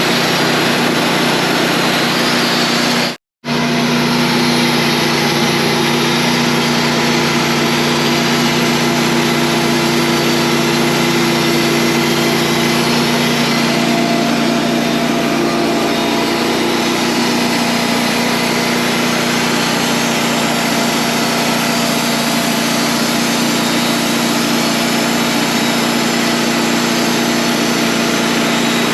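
Wood-Mizer portable sawmill's engine running steadily under load. The sound cuts out completely for a split second about three seconds in.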